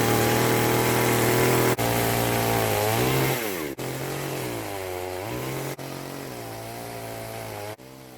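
Two-stroke Titan 50 cm petrol chainsaw running hard while milling oak, its engine note sagging and recovering under load in the cut. It is heard as short stretches with abrupt breaks about every two seconds, each a little quieter than the last.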